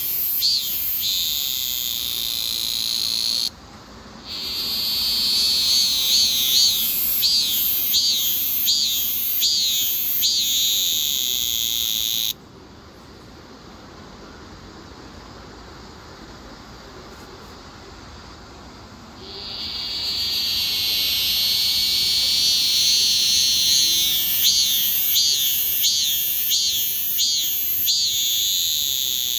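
Cicada singing: a loud, high-pitched buzz with a run of rising-and-falling pulses about twice a second. It cuts off abruptly about 12 seconds in and starts again about 7 seconds later.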